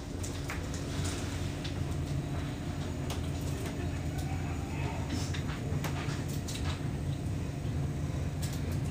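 Steady low rumble inside a slowly moving train carriage, with scattered sharp clicks and creaks.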